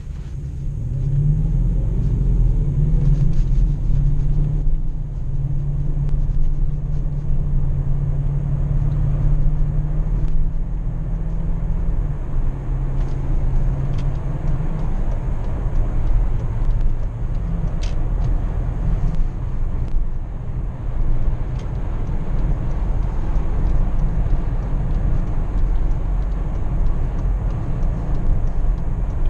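A 2005 BMW X5 4.4i's V8 engine heard from inside the cabin, pulling away with its note rising and holding steady, then dropping in pitch about twelve seconds in. After that it runs at cruise under steady tyre and road noise.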